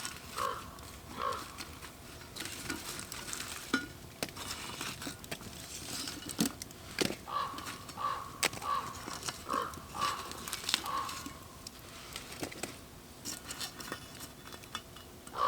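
Cast-iron Dutch oven being opened and handled over a campfire: scattered metal clinks, knocks and scrapes, with short squeaky notes now and then.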